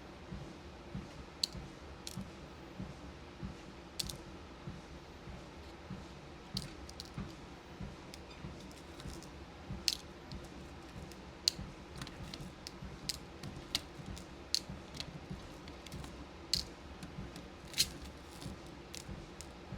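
Beads and small plastic parts being handled and sorted, giving scattered sharp clicks and taps a few times a second. Underneath, a walking pad runs with a steady low hum and the regular soft thud of footsteps, about two a second.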